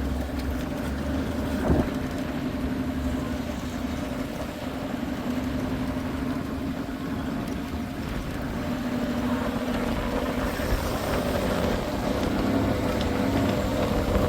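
Safari vehicle's engine running steadily with a constant low hum, and a single knock about two seconds in.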